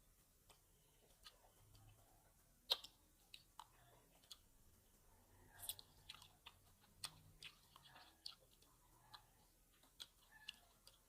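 Faint close-up chewing of grapes, with wet mouth clicks and small crunches scattered irregularly throughout; the sharpest click comes a little under three seconds in.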